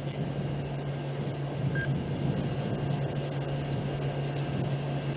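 Steady low mechanical hum over a rough, even background noise.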